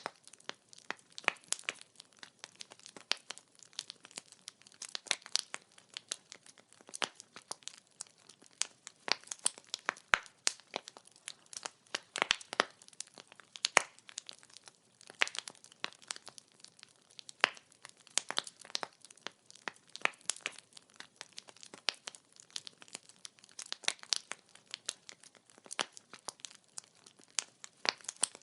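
Burning wood crackling and popping in a steady fire: irregular sharp snaps, several a second, over a soft hiss of flame.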